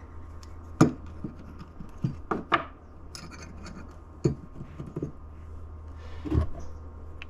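Small metal parts of a transmission shift selector assembly being worked apart by hand: a few sharp clicks and knocks with some scraping, over a steady low hum.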